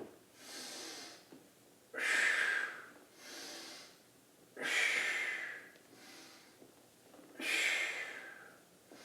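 A man breathing deeply and rhythmically through an exercise, in and out in time with slow pelvic circles. There are three loud breaths, each starting suddenly, with a quieter breath between each pair.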